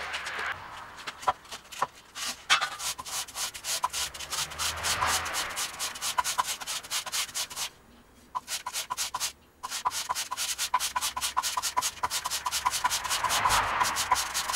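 Quick back-and-forth rubbing strokes on a forged steel knife blade during hand finishing, about five strokes a second, each with a faint metallic ring. The strokes stop for about two seconds midway, then start again.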